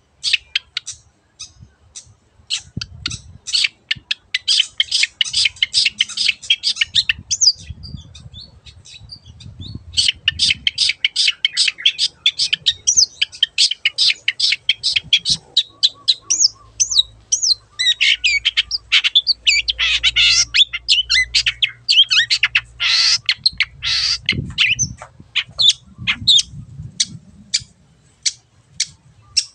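Long-tailed shrike (cendet) singing hard: a fast run of short, sharp clipped notes broken by several dense stretches of harsh, jumbled twittering.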